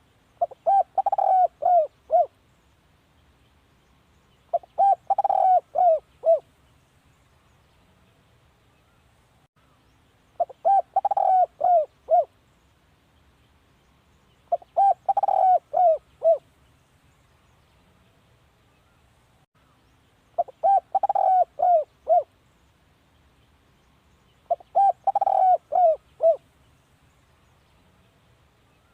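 Spotted dove cooing: a phrase of several quick coo notes, repeated six times at gaps of about four to six seconds.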